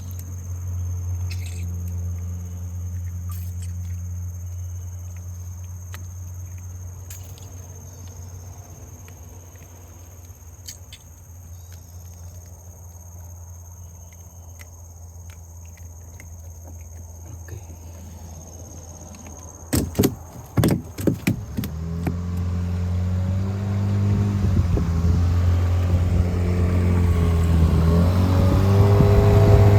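Small boat's engine running steadily at low speed, then a few sharp knocks about two-thirds of the way through, after which the engine speeds up, rising in pitch and growing louder.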